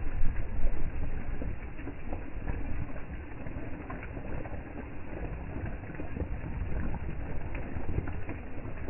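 Hurricane rain falling steadily with many small patters, and a low wind rumble on the microphone that peaks twice in the first second.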